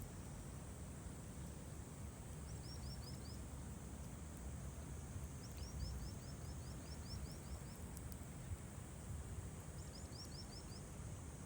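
Outdoor evening ambience: a steady low rumble with a faint high hiss. Three runs of quick, high, falling chirps come, one about two and a half seconds in, a longer one in the middle and a short one near the end. A few faint clicks are scattered through it.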